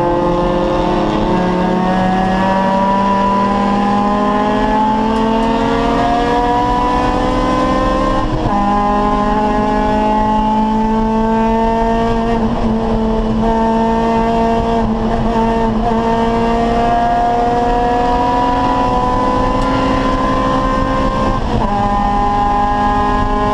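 Acura Integra race car's four-cylinder VTEC engine pulling hard under load, its pitch climbing steadily through the revs. The pitch dips sharply at two upshifts, about eight seconds in and near the end.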